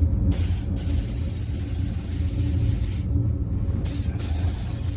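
One-component primer surfacer being sprayed onto a car bonnet: a hissing spray in two passes, with a short break about three seconds in, over a steady low hum.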